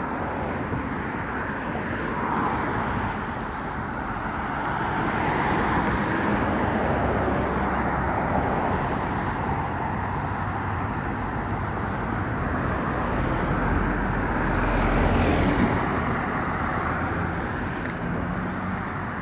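Road traffic: cars passing one after another on the road alongside, their tyre and engine noise swelling and fading, with one louder pass about fifteen seconds in.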